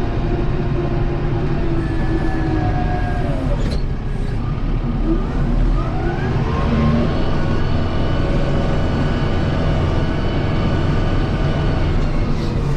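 Kubota M7060 tractor's four-cylinder diesel engine running, its revs dropping about three seconds in and climbing back up over the next few seconds, then holding steady.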